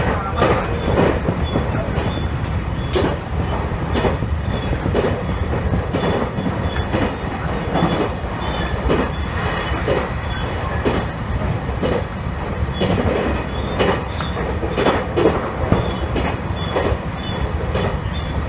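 Electric commuter train running along the line: a steady rumble from the wheels on the rails, with rail-joint clicks about once a second and a faint high whine.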